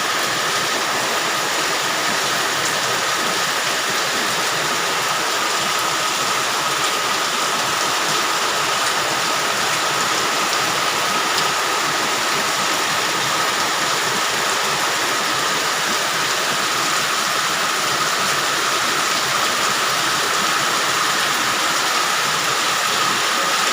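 Heavy rain pouring down in a steady downpour, hard enough that flooding is expected.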